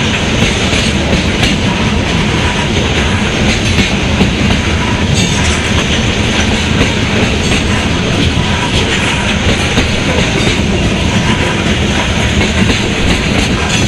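Norfolk Southern freight train of covered hopper cars rolling past, a steady rumble of steel wheels on the rails.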